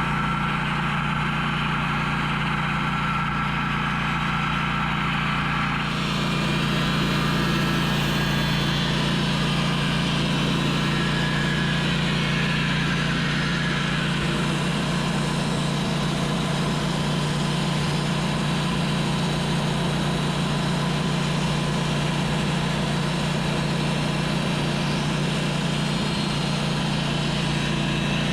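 Wood-Mizer band sawmill's engine running steadily. About six seconds in the sound grows slightly louder and fuller.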